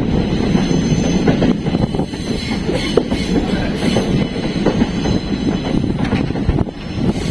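Passenger train running on the line, heard from on board: a steady rumble with the clatter of wheels over the rails and a faint high wheel squeal.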